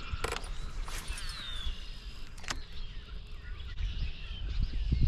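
Birds singing from the shoreline trees, short whistled phrases that slide downward, over a steady low rumble with a few sharp clicks.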